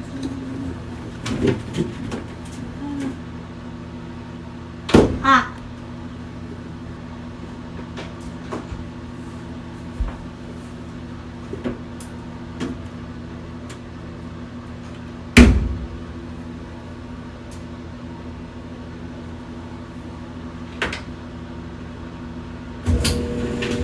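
Steady electrical hum of a running kitchen appliance, with a few sharp knocks of cupboard doors and handled objects, the loudest about five and fifteen seconds in.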